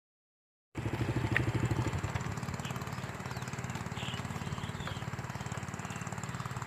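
A small engine running steadily with a fast, even chug. It cuts in abruptly just under a second in and is a little louder for its first second.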